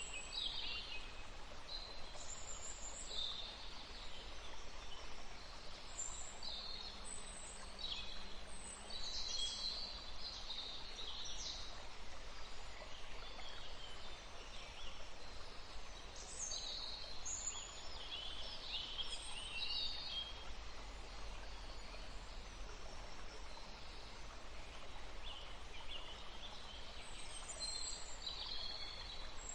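Several small birds chirping and twittering in short, high phrases, with overlapping calls throughout, over a steady outdoor background hiss.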